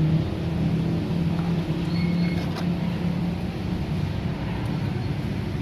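Steady low motor-like hum, with two short high electronic beeps about two seconds in.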